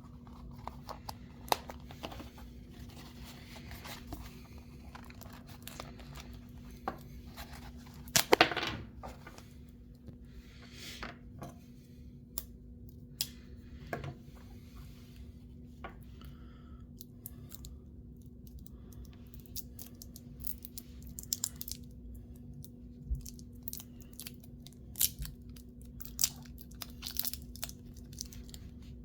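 Earphone packaging being handled during an unboxing: scattered rustles, taps and clicks, with a loud tearing rip about eight seconds in. A faint steady hum runs underneath.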